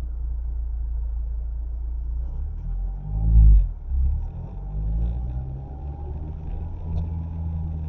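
Car engine and road rumble heard from inside the cabin at low speed, with one brief louder surge of engine pitch that rises and falls about three seconds in.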